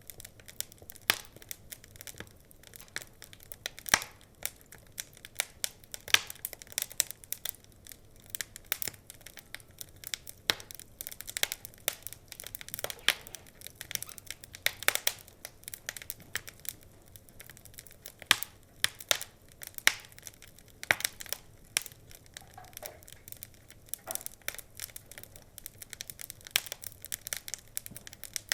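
Wood fire crackling: irregular sharp pops and snaps from the burning logs, several a second, over a faint steady hiss.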